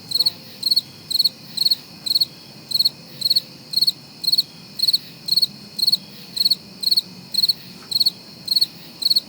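A cricket chirping in an even rhythm, about two short high trills a second.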